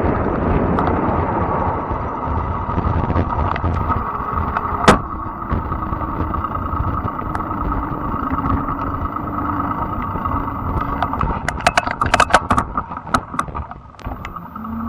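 Fat-tire electric bike being ridden: steady tyre and wind rush with a steady whine. There is one sharp click about five seconds in, and a burst of clicks and rattles about three-quarters of the way through.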